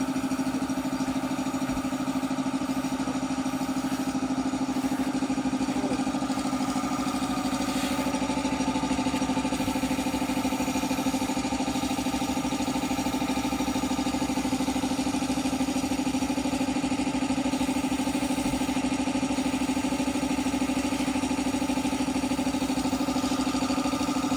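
Small airbrush air compressor running with a steady hum.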